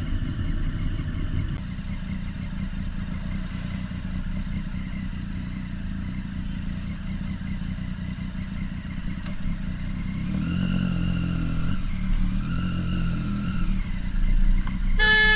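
Motorcycle engine running on the road, a steady low drone. A higher-pitched tone comes in twice, briefly, in the last few seconds.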